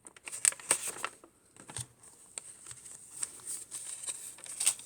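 Paper pages and a fold-out booklet of a handmade junk journal being handled and opened: irregular crisp rustles and light taps, with a faint steady high whine underneath.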